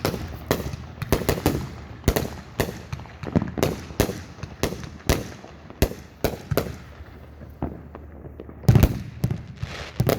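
Fireworks going off in a rapid, irregular series of sharp bangs and cracks, several a second. A brief lull comes near the end, followed by a loud cluster of bangs.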